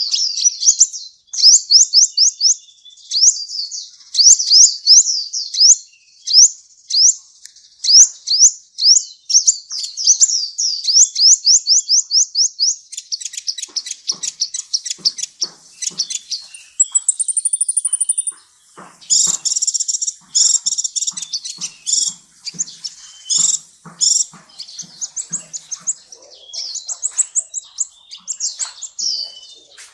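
Sunbird song: fast runs of sharp, high-pitched chirps and quick sweeping notes, with a thin, high trill about halfway through and choppier clicking notes after it.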